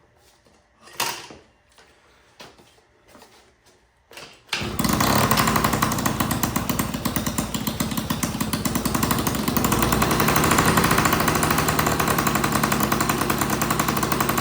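Yamaha PW50's small two-stroke single-cylinder engine being kick-started. After a few faint knocks it fires about four and a half seconds in and keeps running loud and steady at high revs, its throttle slide stuck wide open.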